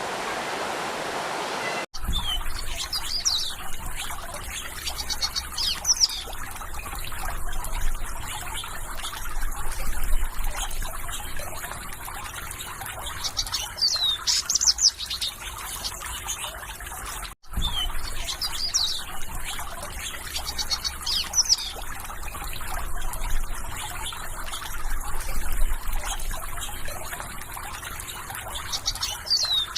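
Rushing water breaks off about two seconds in and gives way to trickling water, with songbirds chirping over it in repeated short, high, down-slurred phrases. There is a brief dropout about halfway through.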